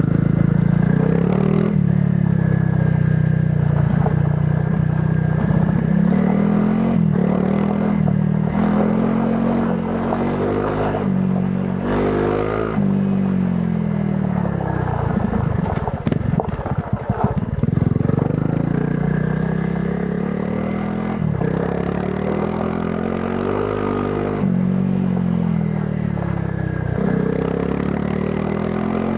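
Honda CRF300 Rally's single-cylinder four-stroke engine through its stock exhaust, the revs rising and dropping again and again as the rider works the throttle and gears. A rattling, clattering stretch comes about halfway through.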